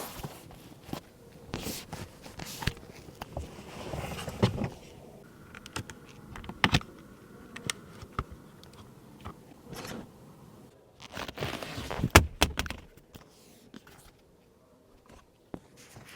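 Scattered clicks, taps and scraping handling noises, with a louder cluster of clicks about twelve seconds in.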